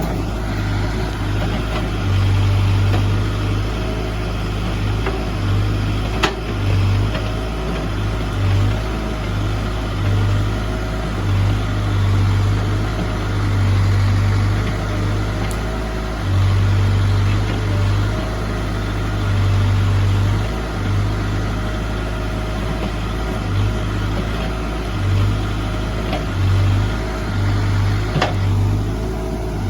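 Heavy-equipment diesel engine running at work, its low drone swelling and easing every second or two. A sharp knock comes about six seconds in, and a fainter one near the end.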